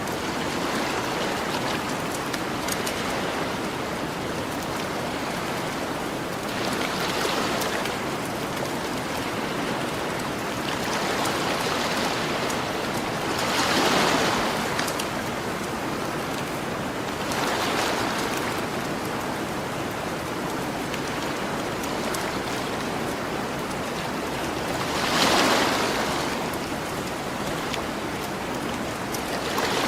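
Ocean waves washing onto a shore over a steady hiss of surf. Several waves swell and fall back, the strongest about halfway through and near the end. Light crackles from a campfire run underneath.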